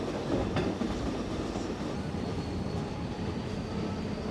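Excursion train passenger car rolling along the track at speed, heard from aboard: a steady rumble of wheels on rail, with a single click about half a second in and a faint thin high tone from about two seconds in.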